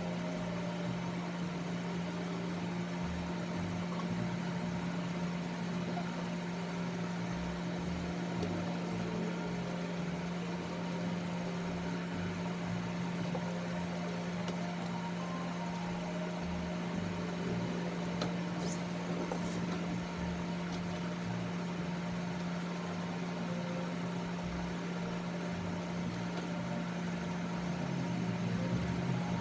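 Electric dog-grooming clipper running with a steady hum. A few faint clicks come through it about two-thirds of the way in.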